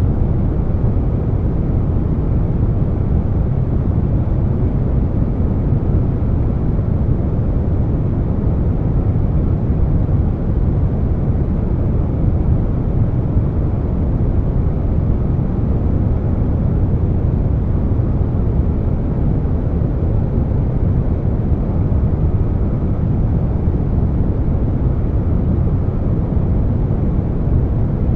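Air conditioner noise blended with brown noise: a deep, steady rush that stays even throughout, with no changes or events.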